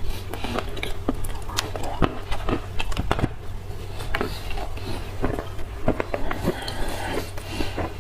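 Close-up crunching and chewing of dry black clay: irregular sharp crunches and crackles, several a second.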